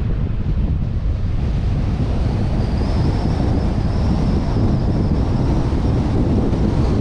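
Wind buffeting a suction-mounted GoPro's microphone on a moving vehicle, with steady road and engine noise underneath. It grows slightly louder about two seconds in, and a faint high whistle rises and fades through the middle.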